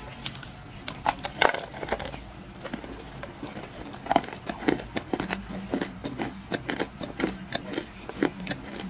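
Dry clay crunching and crumbling in a rapid, irregular run of sharp crackles and snaps.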